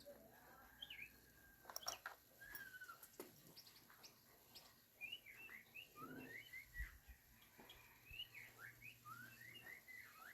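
Faint birdsong: a bird's quick, repeated chirps and whistled notes, busiest in the second half, with a few light clicks early on.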